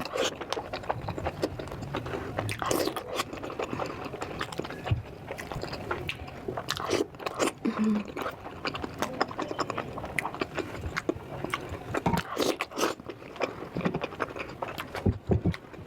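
Close-miked biting and chewing of crunchy food, a dense run of crisp crunches and crackles.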